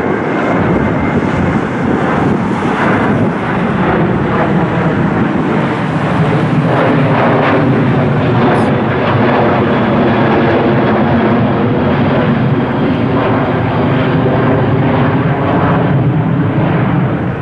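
Jet airliner's engines running at takeoff power as it rolls for departure: a loud, steady rumble with several engine tones held through it.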